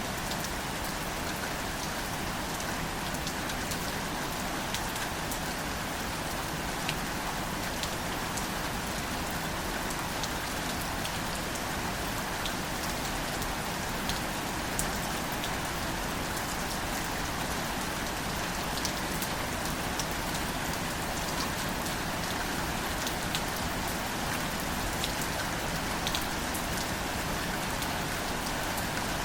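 Steady, gentle rain falling on wildflowers and foliage, with a continuous hiss and many separate drop ticks.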